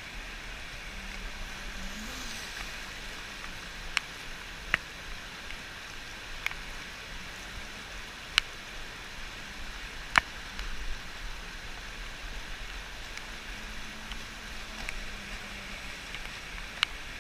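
Steady rush of river water, with about half a dozen sharp clicks spread unevenly through it.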